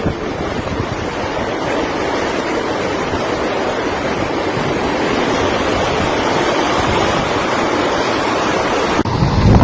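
Hurricane wind and surf as a steady, loud rushing noise, with wind on the microphone. About nine seconds in it changes suddenly to a louder, lower wind rumble.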